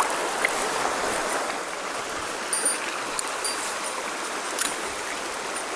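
Mountain stream water rushing over rocks: a steady hiss, with a few faint clicks near the middle.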